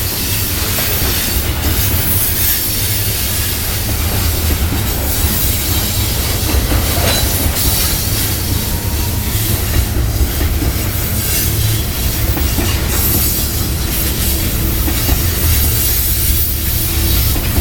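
Long freight train rolling past close by: a steady, loud rumble of cars and wheels on the rails.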